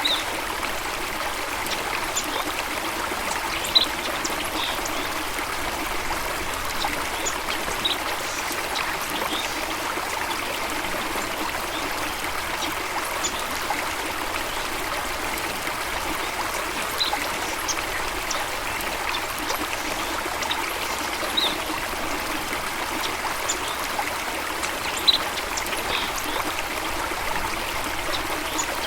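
A stream of water running and trickling steadily, with a few brief, sharp high sounds now and then over it.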